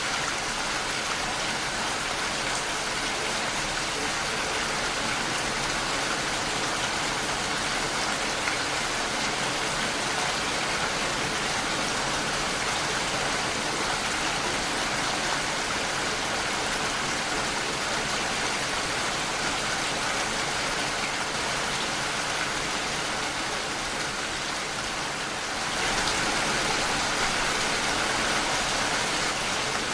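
Steady rain falling against a window: an even hiss of many drops, a little louder for the last few seconds.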